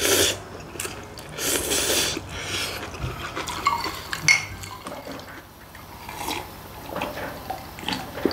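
Ramyun noodles slurped in two loud bursts, then two glass mugs clink in a toast about four seconds in, followed by gulps of water near the end.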